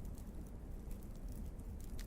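Wood fire in a fireplace burning, with a steady low rumble and scattered small crackles and pops from the burning logs.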